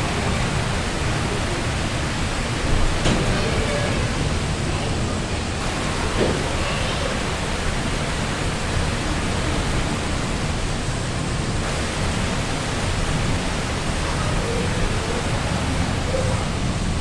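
Heavy rain falling in strong wind: a steady, dense hiss with a heavy low rumble of wind on the microphone.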